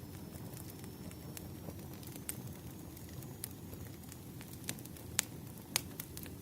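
Wood fire burning: a steady low rush with irregular sharp crackles and pops, a few louder snaps in the second half.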